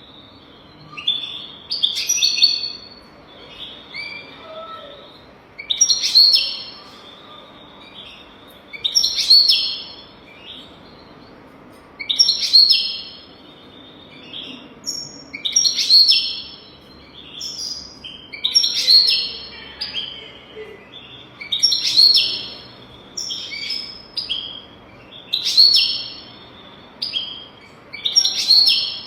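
European goldfinch singing, a tutor song: bright, twittering high chirped phrases repeated about every three seconds.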